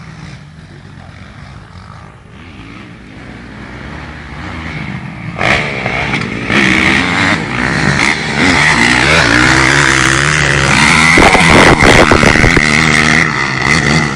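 Motocross dirt bike engines revving, faint at first and growing loud about five seconds in as bikes come close, the pitch rising and falling with throttle and gear changes.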